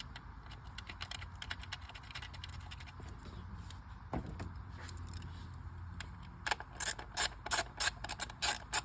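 Soft handling clicks of an ignition coil pack being seated. From about six and a half seconds in, a hand ratchet clicks in quick short strokes, about three a second, running down the coil pack's 8mm bolt.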